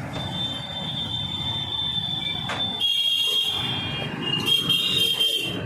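Steady high-pitched electronic tones, like a buzzer, that shift in pitch about three seconds in and again near the end, over a low rumble of street traffic.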